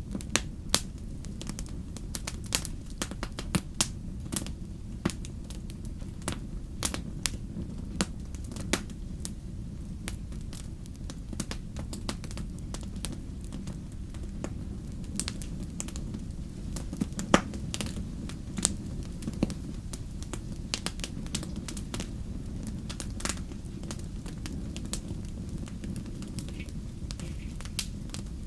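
Wood fire crackling in a fireplace: a steady low rumble of flames under many irregular sharp pops and snaps, with one louder pop past the middle.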